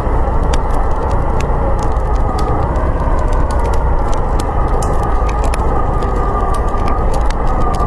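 Snowstorm wind howling, a steady rushing with a faint whistling tone that slowly rises and falls, over the frequent, irregular crackles of a wood fire.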